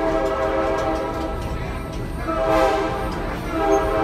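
Excursion train carriage rolling along with a steady low rumble, with sustained chord-like tones over it that shift pitch about two and a half seconds in.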